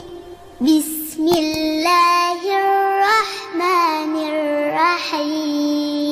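A high voice chanting Quranic recitation in a melodic style, holding long notes with wavering ornaments.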